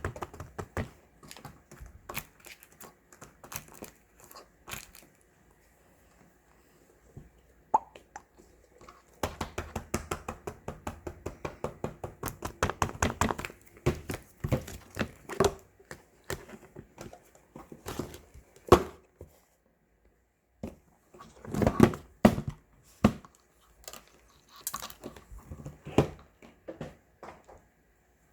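Handmade paper-and-tape squishies handled with crinkling and rustling, made up of many quick clicks and crackles. There is a dense run about ten seconds in and another cluster a little past twenty seconds.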